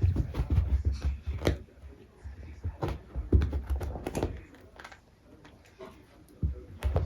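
A cat's toy ball knocking and rolling on the floor as the cat bats it: a run of light knocks over a low rumble, easing off about five seconds in and picking up again near the end.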